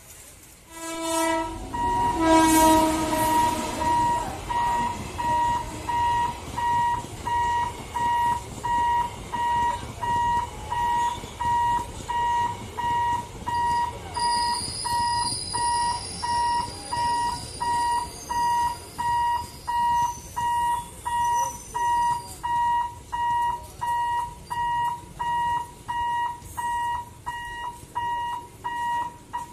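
An express train hauled by a WAP7 electric locomotive passes at speed: a loud horn near the start, then a continuous rumble of the coaches going by. Over it, an electronic warning alarm beeps a bit more than once a second, and a high squeal joins for several seconds midway.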